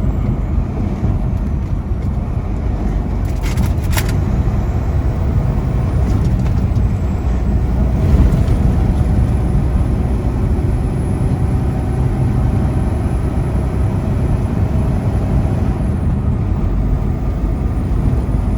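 Semi truck cruising at highway speed, heard from inside the cab: a steady engine drone and road noise, with a couple of short clicks a few seconds in.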